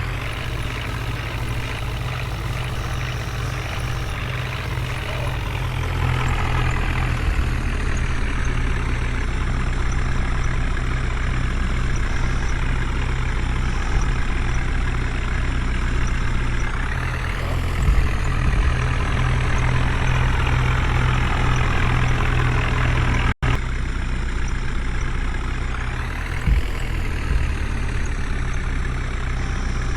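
Heavy diesel engine running steadily with a deep, continuous drone, its high-pitched whine rising briefly twice. The sound cuts out for an instant about two-thirds of the way through.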